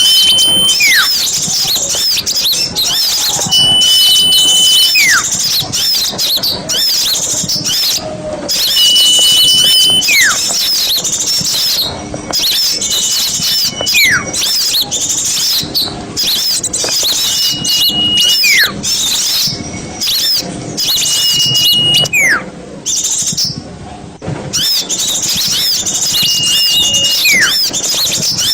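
Bird-lure recording of a dense chorus of small songbirds chirping rapidly and high-pitched. Over it a whistle repeats about every four to five seconds: a held note, then a slur falling steeply in pitch.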